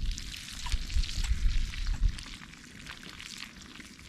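Food sizzling in a pan that has just been lifted off the campfire because it was getting too hot, with many small crackles. Low knocks of handling come in the first two seconds, and the sound settles after that.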